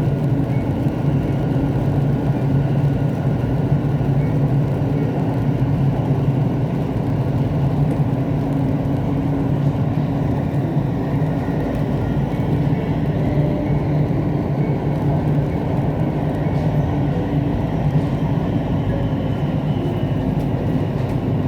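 Siemens Inspiro metro train running at a steady speed, heard from inside the car: a continuous rumble of wheels on rail with a steady hum from the running gear.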